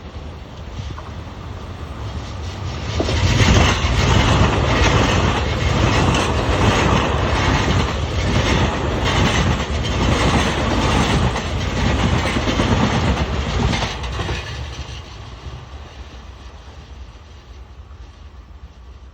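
A train passing by: it grows louder over the first few seconds, runs loud with a repeated clatter of wheels over the rails for about ten seconds, then fades away.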